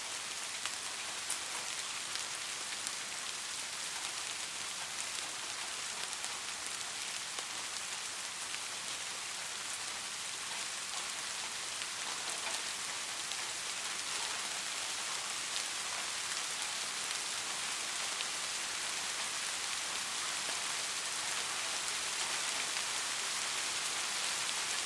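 Steady rain falling on a surface: an even hiss of many raindrops with scattered individual drop ticks, growing a little louder toward the end.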